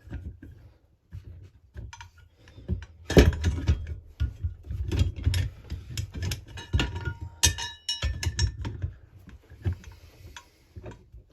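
Metal clinks and knocks as a crankcase splitter tool is set onto a Husqvarna 346XP chainsaw's crankcase and adjusted. There is a heavier knock about three seconds in and a brief ringing clatter of metal parts around seven seconds in.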